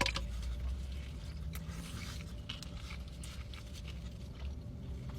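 Eating sounds: chewing, with scattered wet mouth clicks and smacks over a low steady hum.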